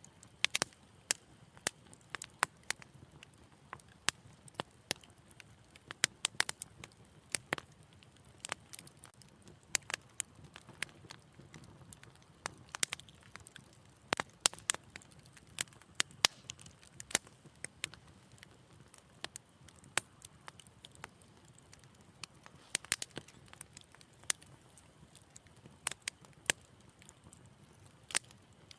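Fire in a fireplace crackling: irregular sharp pops and snaps, several a second, over a faint low hiss.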